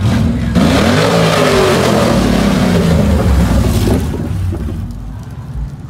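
A vehicle engine revving hard, its pitch rising and falling, loud for about four seconds and then dying away.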